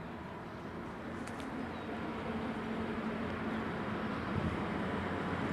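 An approaching freight train: the locomotive's running noise and a steady hum, growing steadily louder as it nears.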